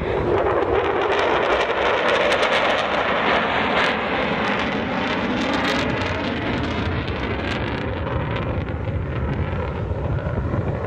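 Aircraft flying past: a loud, steady roar whose pitch sweeps downward just after the start, easing slightly toward the end.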